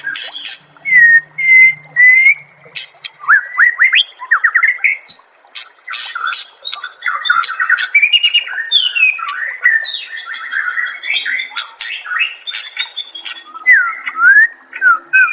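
White-rumped shama (murai batu) singing a loud, varied song without pause: clear whistled notes and slurs, quick runs of rising notes, and sharp clicking calls mixed in.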